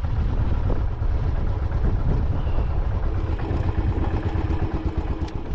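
Royal Enfield Classic 500's single-cylinder engine running with a steady low rumble.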